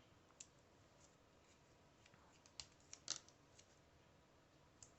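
Near silence with a few faint, short clicks and rustles of small paper pieces being handled, clearest about halfway through.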